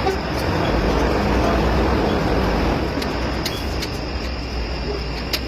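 Volvo D13 diesel truck engine running steadily, with a low hum and a few light ticks.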